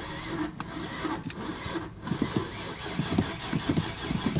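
Starter cranking the cold 5.0-litre V8 of a 1991 Mercury Grand Marquis with some gas given, turning it over in a steady rhythm of about five pulses a second without it catching: a hard cold start.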